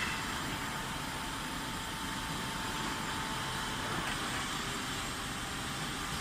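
Electric reach truck running, a steady machine hum with a thin whine that cuts off about four seconds in.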